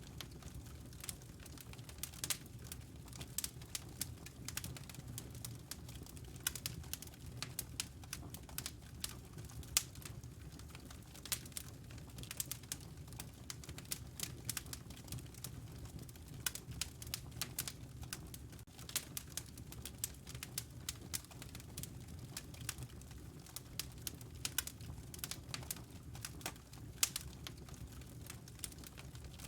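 Wood fire crackling in a fireplace: frequent irregular snaps and pops over a steady low rumble of the burning fire.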